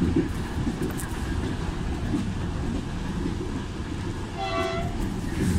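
Steady rumble and rattle of a 1980s-era passenger train running along the track, heard from the cab. A brief, faint high-pitched tone sounds about four and a half seconds in.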